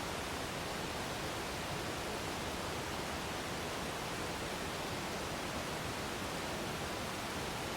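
Waterfall: a steady, unbroken rush of falling water, even across high and low pitches.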